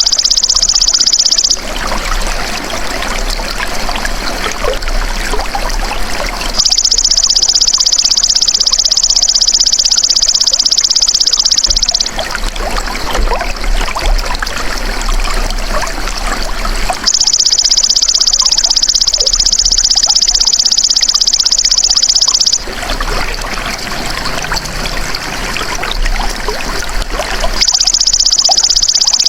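Belalang emas (golden grasshopper) buzzing in a continuous high-pitched trill for about five seconds at a time, alternating with about five-second stretches of trickling water. The trill is heard near the start, from about seven to twelve seconds, from about seventeen to twenty-two seconds, and again near the end, with the water between.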